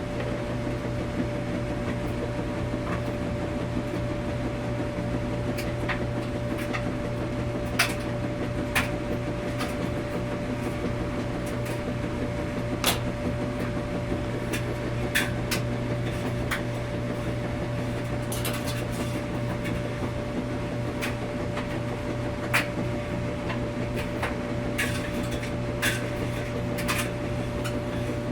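Laundromat washing machines running: a steady hum with a constant low drone and a steady higher tone, with scattered sharp clicks and knocks every few seconds.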